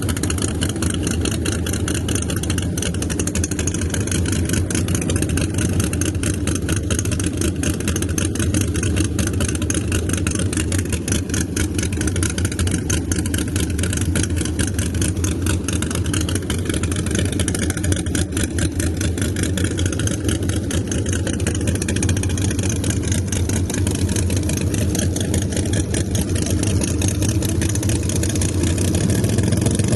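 Drag car engine idling steadily with a fast, even pulse.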